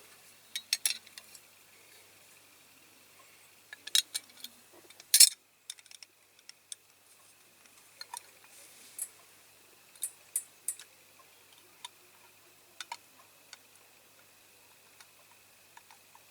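Small diecast toy parts clicking and tapping against each other as they are handled and fitted together, in irregular scattered knocks, the loudest about four and five seconds in. A faint steady high whine runs underneath.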